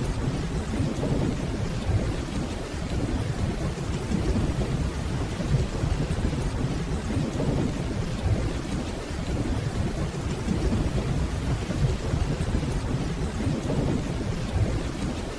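Steady rainfall under a continuous low rumble of distant rolling thunder.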